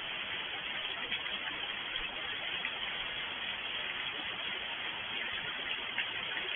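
Steady rain falling: an even hiss with scattered faint taps of single drops.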